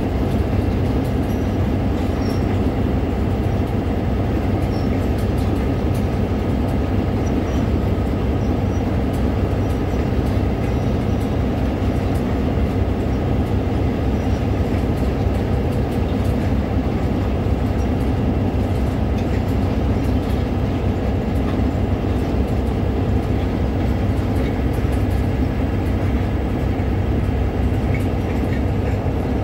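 Train running on the rails: a steady rumble of rolling wheels with faint scattered clicks.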